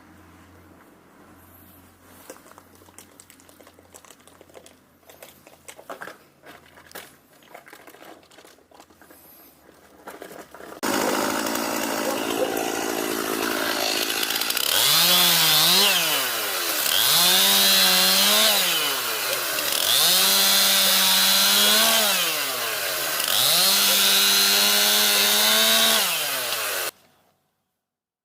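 Faint scattered clicks and crackles, then about eleven seconds in a chainsaw starts running. It speeds up four times, holding at full speed for a second or two each time before slowing again, and cuts off abruptly near the end.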